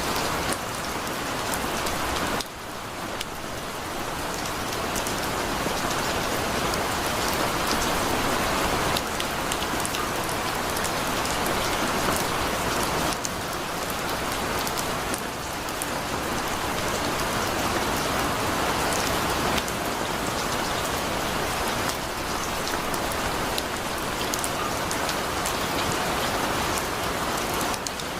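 Heavy rain falling steadily, a dense hiss with fine drop ticks throughout, dipping briefly about two and a half seconds in.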